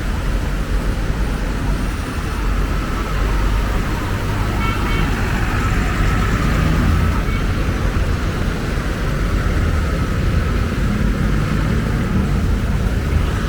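Busy city road traffic: vehicles running past with a steady low rumble. A short pitched tone, like a horn, sounds briefly about five seconds in.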